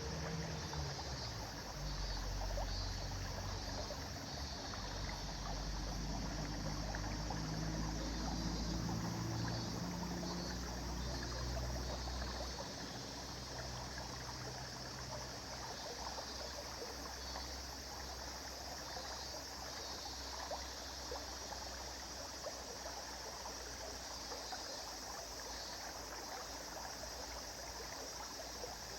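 River water flowing in a steady, even rush. A low droning hum runs under it through the first half and fades out a little past the middle.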